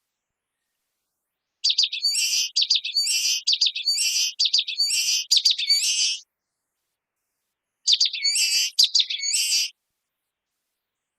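Common waxbill singing: a run of quick, high repeated notes lasting about four and a half seconds, then after a short pause a second, shorter run of about two seconds.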